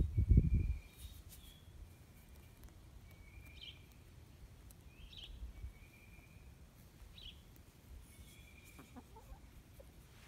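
Faint bird calls repeat every second or so, each a short held note with a brief chirp, over quiet outdoor background. A low rumble on the microphone fills the first second.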